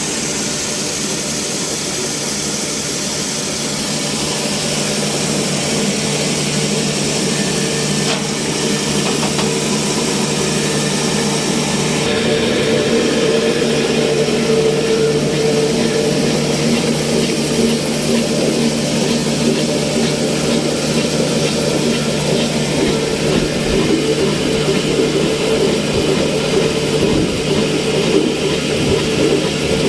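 Old slow-speed 22/24 HP stationary diesel oil engine running steadily at about 300 rpm, growing a little louder over the first dozen seconds.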